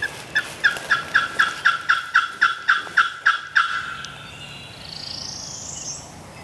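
Turkey yelps: a run of about fourteen evenly spaced, clear notes, roughly four a second, stopping a little over halfway through. A faint rising high note follows near the end.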